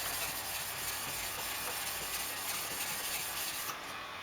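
A softer stone rubbed on a wet Japanese polishing water stone to smooth its top and raise a slurry: a steady gritty scrubbing that stops near the end.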